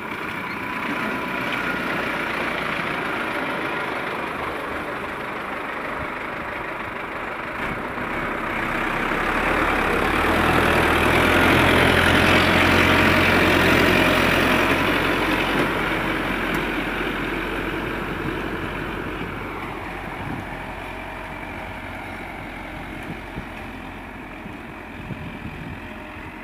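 Diesel tractor engine running, growing louder to a peak about halfway through and then fading again, as if the tractor drives close past.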